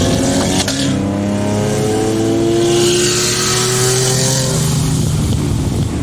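Car engine accelerating hard. It comes in abruptly, and its pitch climbs steadily for about four seconds before levelling off.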